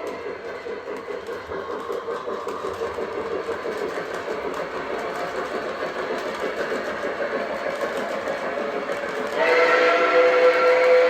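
Lionel Legacy Southern Atlantic model steam locomotive running over the track, with its sound-system steam effects and the rumble of the rails. Its steam whistle blows about nine seconds in and holds to the end.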